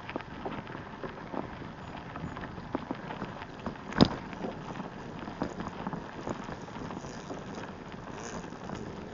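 Bicycle ride noise: tyres rolling over a path, small rattles and ticks, and wind on the microphone, with one sharp knock about four seconds in.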